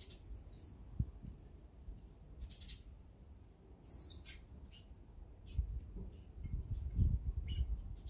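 Scattered short bird chirps and calls, about eight brief notes, with a low rumble building up in the second half.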